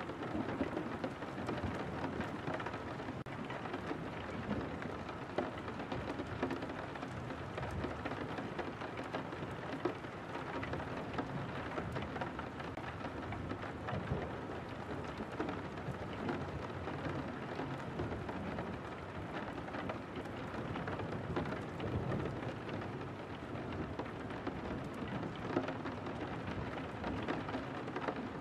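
Steady rain on a window pane: many small drop taps over an even hiss, with a steady low rumble underneath.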